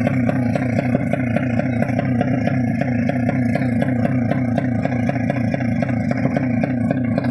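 Tuned 200cc underbone racing motorcycle engine running loudly at a steady, held speed with a regular pulsing beat.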